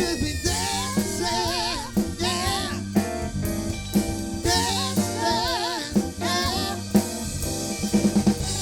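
Live band playing: a drum kit keeps a steady beat with a sharp hit about once a second over a bass line, while a melody line wavers with vibrato above.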